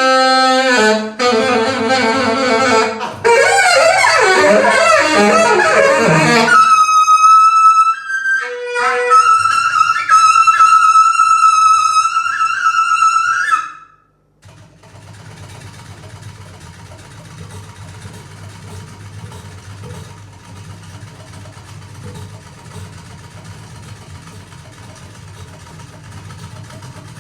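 A wind instrument plays a quick run of notes, then two long held high notes, and stops abruptly about halfway through. After that only a steady low hum and room noise remain.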